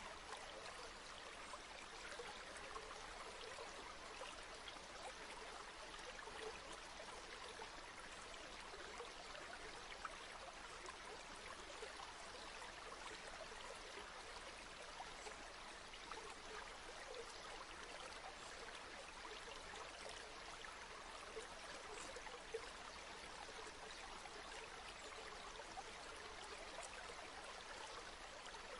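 A flowing river: a faint, steady rush of water that stays the same throughout.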